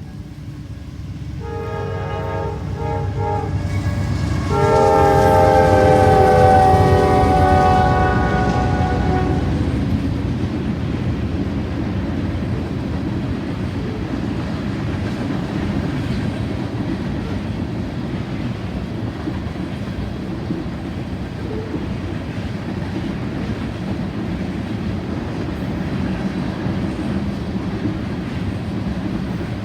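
Locomotive air horn sounding a chord of several tones in long, short and long blasts, the last held for about five seconds and the loudest: the grade-crossing horn signal. Under and after it a passing train rumbles steadily, with rail clatter as the cars roll by.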